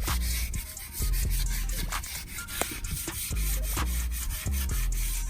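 Rubbing and scrubbing strokes as toothpaste is worked by hand onto a surface of the car, over background music with a heavy, pulsing bass beat.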